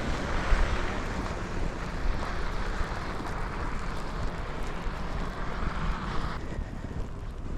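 Wind buffeting the microphone with a low rumble, over the hiss of street traffic, which drops away suddenly about six seconds in.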